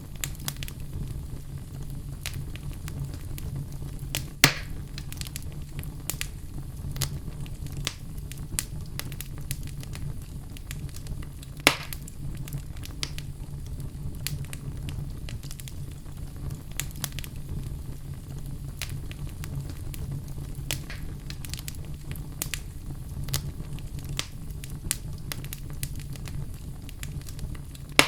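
Wood fire crackling in a fireplace: dense small crackles and pops over a steady low flame noise, with two much louder pops, one about four seconds in and one about twelve seconds in.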